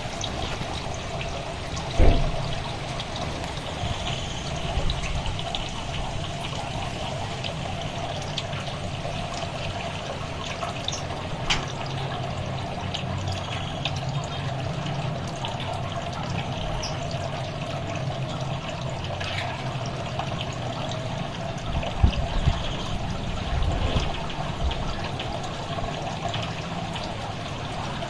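Steady trickling of running water, with a few dull knocks along the way.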